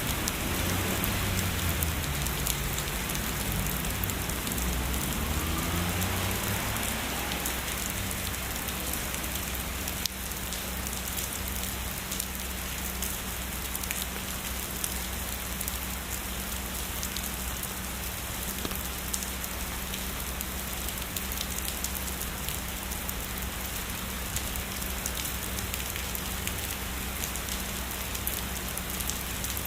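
Heavy rain falling steadily, a dense hiss with fine raindrop patter. A low rumble of distant thunder dies away over the first several seconds.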